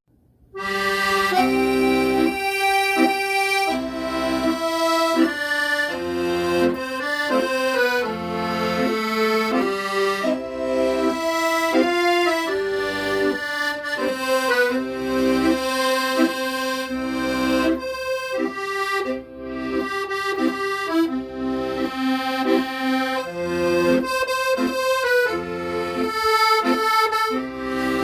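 Accordion playing a melody over chords and bass notes, starting up after a brief silence about half a second in.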